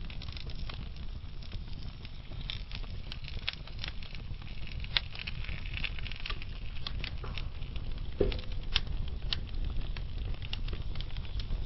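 Wood fire burning in a fireplace: logs crackling with irregular small snaps over a steady low rumble of the flames, and one louder pop about eight seconds in.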